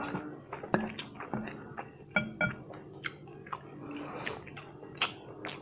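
A person chewing a mouthful of soft instant curry noodles close to the microphone, with irregular wet mouth clicks and smacks.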